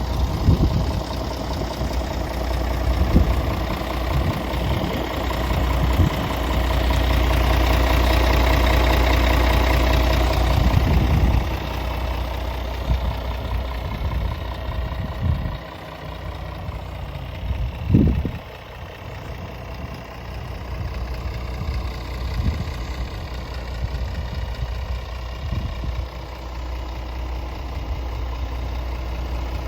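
Scania R450 truck's six-cylinder diesel engine idling steadily. It gets louder for a few seconds about a quarter of the way in, and there is a single sharp thump a little past the middle.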